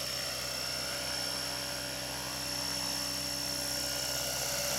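Align T-REX 600E LTD electric RC helicopter in flight: the steady high whine of its electric motor and drive gears over the buzz of the rotor blades.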